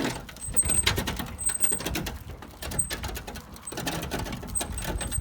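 Irregular knocking, scraping and clattering of broken construction rubble being handled and walked over, with a faint high chirp coming and going.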